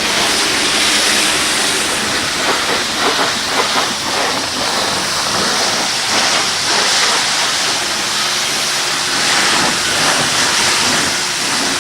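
Car wash water spray hissing steadily against the car.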